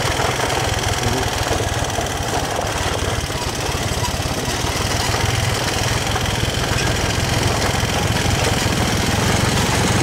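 Motorbike engine running steadily while riding along a very rough road.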